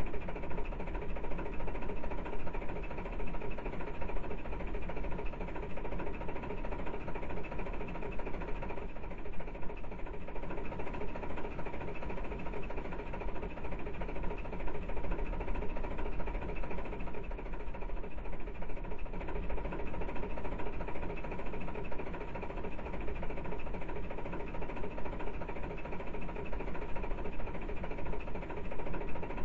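A train running steadily: a continuous mechanical rattle with a constant hum through it.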